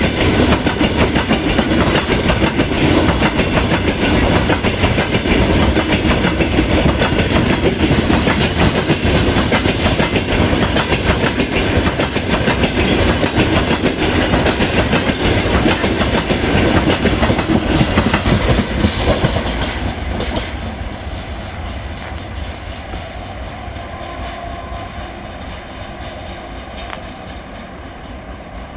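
Railway cars rolling past close by, their wheels clattering over the rail joints, loud and steady until about twenty seconds in, then fading as the train moves away.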